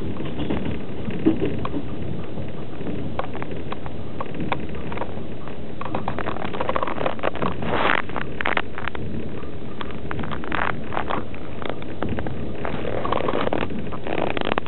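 Passenger train running, heard from inside an open-sleeper carriage at the window: a steady rolling rumble with irregular clicks and knocks of the wheels on the track, thickening into a clatter about halfway through and again near the end.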